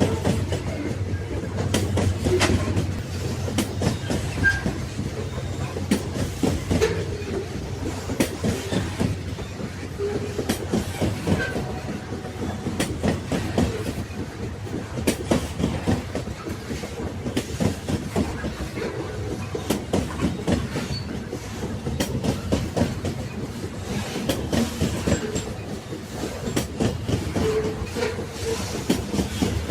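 Railway wagons rolling along the track, a steady low rumble with the irregular clickety-clack of wheels over rail joints and knocks from the cars.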